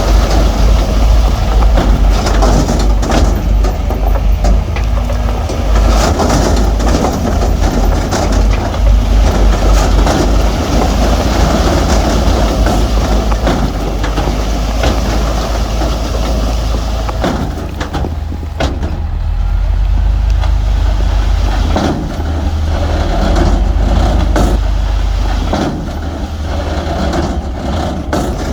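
Heavy earthmoving machinery working: a diesel engine running under load, with stone and rock clattering and grinding throughout.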